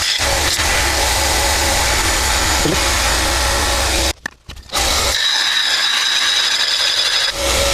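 A power tool running under load, cutting or sanding, cuts out about four seconds in and starts again half a second later.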